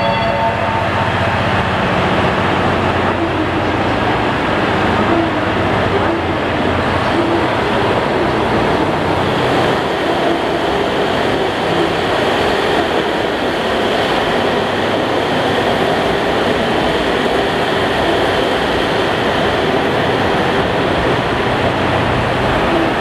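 Steady rumble and hiss of trains in a railway station, even in level throughout.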